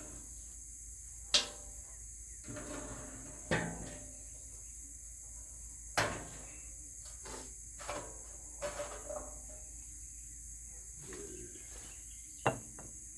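Several sharp knocks and clanks spaced a few seconds apart, the loudest about a second in, at six seconds and near the end, like metal parts and tools being handled. A steady high hiss runs underneath.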